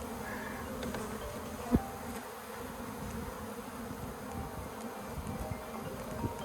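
Honeybees buzzing steadily around an opened colony as its comb is cut out, with a single knock about two seconds in.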